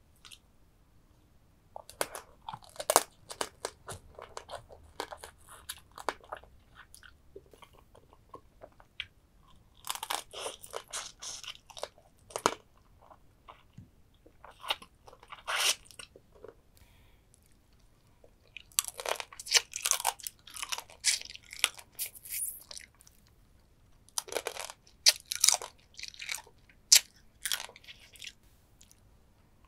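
Close-up crunching and chewing of soy-sauce-marinated stone crab (ganjang gejang): the shell cracks and crackles in spells of a few seconds, with quieter pauses between.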